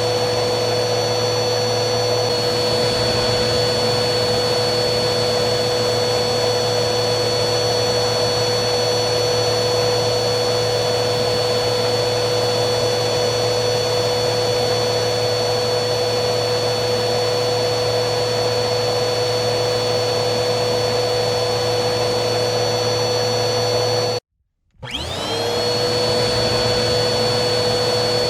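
Vacuum cleaner running steadily: an even rushing noise with a constant motor whine. Near the end it cuts out abruptly for about half a second, then comes back with the whine rising up to speed.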